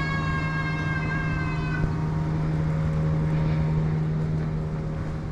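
Street traffic: a steady low engine hum, with a long high-pitched squeal that slowly falls in pitch and stops about two seconds in.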